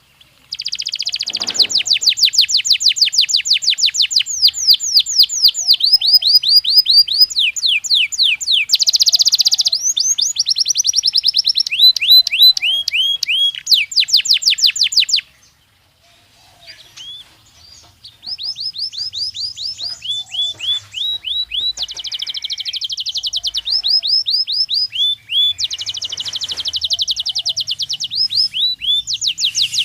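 Belgian canary singing: fast, loud trills of rapidly repeated notes, each run held a second or two before switching to another note type. The song breaks off about halfway through for a couple of seconds and then resumes.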